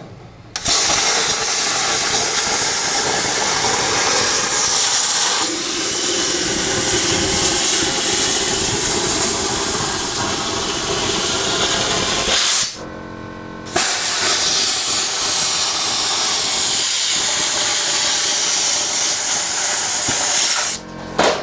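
Plasma cutter cutting sheet metal: a loud steady hiss that starts about half a second in, breaks off for about a second about two-thirds of the way through, then starts again and stops near the end.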